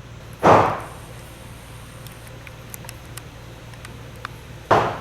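Two sharp, loud bangs about four seconds apart, each ringing out briefly in a reverberant room, over a steady low hum.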